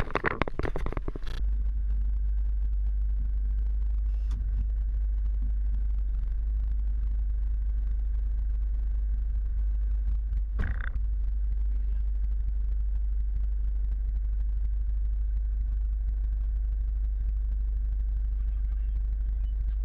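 Scania truck running steadily, a constant low rumble, with a brief jumble of knocks at the start and a short burst of noise about halfway through.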